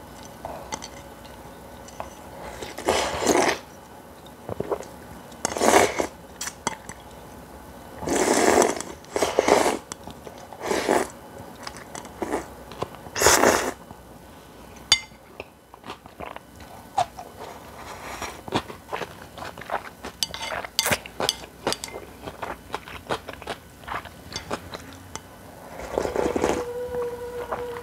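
Close-miked eating sounds: a person biting and chewing cold naengmyeon noodles and crunchy spicy kimchi. There are several louder noisy bursts about half a second long in the first half, then a run of small crunching clicks, and a brief steady tone near the end.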